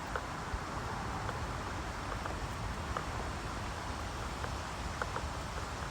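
Outdoor ambience: steady wind noise buffeting the microphone with a low rumble, and faint short ticks scattered through it.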